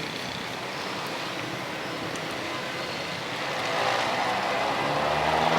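Street traffic noise, steady at first, then a motor vehicle passing that grows louder near the end.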